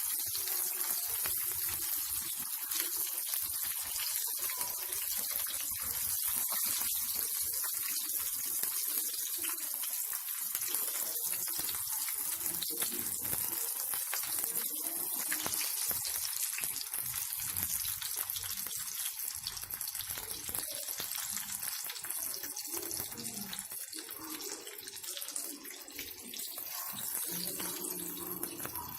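Vegetable 'fish' patties frying in hot oil in a pan: a steady sizzle with fine crackling, a little quieter near the end.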